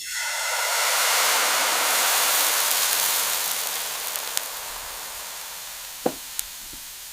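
Food sizzling in a hot pan: a loud hiss that starts suddenly, then slowly dies down.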